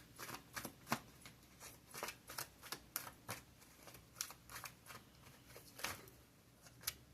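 Tarot cards being shuffled by hand: a faint, irregular run of short card flicks and taps, several a second.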